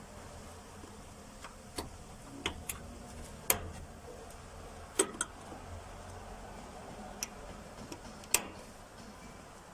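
Irregular sharp clicks and taps of metal parts and hand tools as a fuel pump assembly is refitted, about ten in all, three of them louder than the rest.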